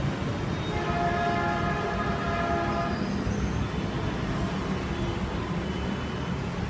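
Electronic keyboard sounding a held chord for about two seconds, starting about a second in, followed by a few faint short notes, over a steady low background noise.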